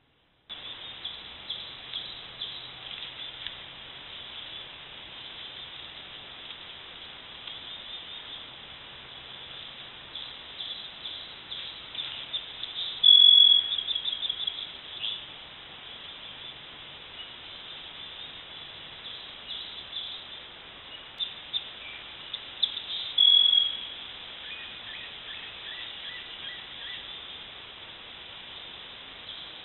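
Small birds chirping outdoors, with two louder short high trills, one about halfway through and another at about two thirds. The recording comes through a trail camera's low-grade microphone, so a steady hiss runs under it.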